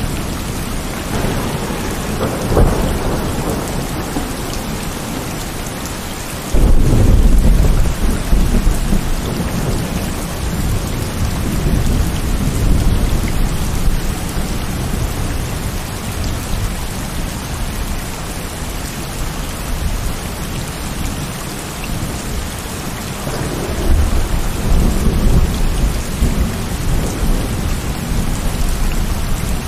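Heavy rain falling steadily, with rolls of thunder: a sudden loud low crack about six seconds in that rumbles away over several seconds, and further rumbles near the start and about three-quarters of the way through.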